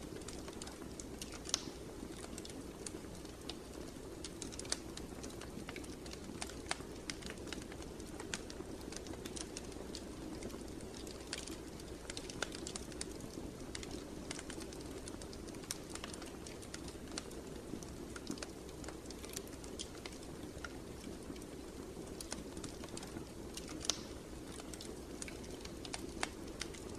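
Wood fire burning in a fireplace, with irregular small crackles and pops over a steady low hiss of the flames.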